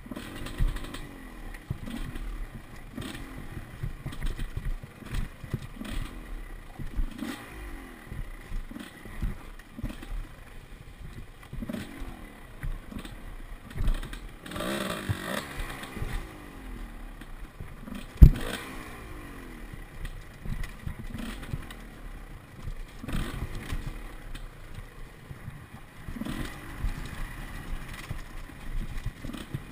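Enduro dirt bike engine revving up and falling back in short repeated bursts, with knocks and clatter from the bike over rough ground. One sharp, very loud knock comes about 18 seconds in.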